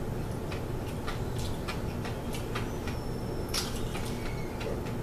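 Irregular crunchy clicks, two or three a second, of a hard-boiled egg being chewed with its shell on, one louder crunch about three and a half seconds in, over a steady low hum.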